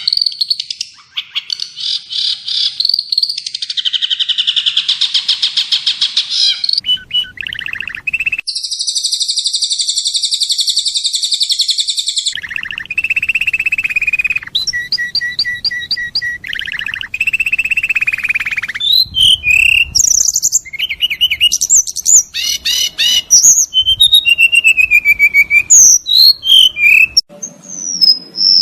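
Recorded songbird songs spliced one after another as tutoring material for a long-tailed shrike. The songs switch abruptly every few seconds: warbling trills, a loud buzzy trill about a third of the way in, then fast, varied chirps and whistles.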